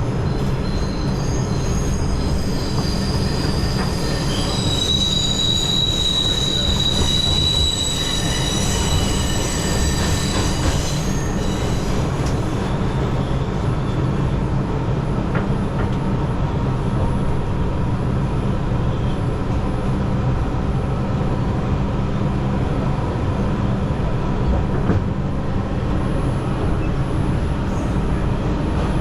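New York City subway train running, its steel wheels squealing with several high tones for the first ten seconds or so, then a steady low rumble.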